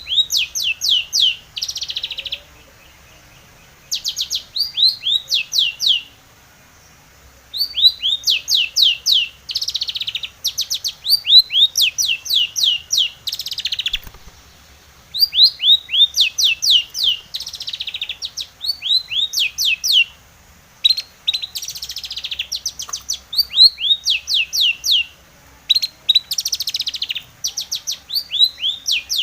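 Long-tailed shrike singing: bouts of rapid, sharply falling high notes, several a second, broken by short pauses every few seconds.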